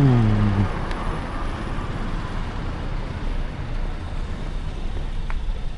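Roadside traffic noise, with a vehicle going by at the very start as a loud tone dropping in pitch, then a steady low rumble of road noise.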